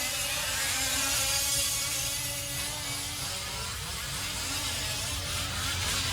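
Several 5th-scale RC off-road trucks' small two-stroke gas engines buzzing as they race, pitch wavering with the throttle.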